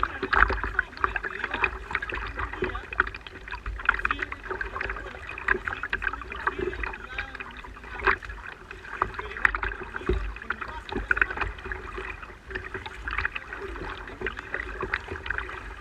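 Water splashing and slapping against a fishing kayak's hull, with many scattered small knocks over a steady low rumble.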